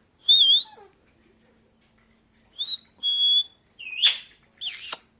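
Pet parakeet whistling and calling: a wavering high whistle near the start, a short whistle and a held whistle about halfway through, then two sharp calls that sweep steeply upward near the end.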